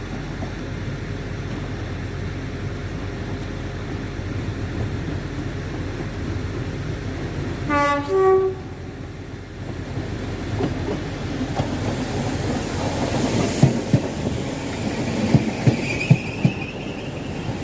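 A train sounds a short two-tone horn about eight seconds in, a lower note then a higher one, over the steady low rumble of the train. From about ten seconds its wheels clack over the rail joints, and a high wheel squeal rises near the end.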